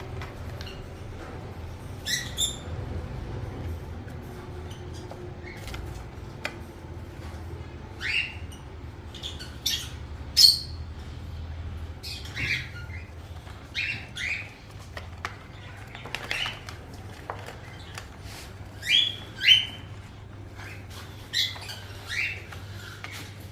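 Baby parrots giving short, scattered chirps and squawks, some in quick pairs, over a steady low hum.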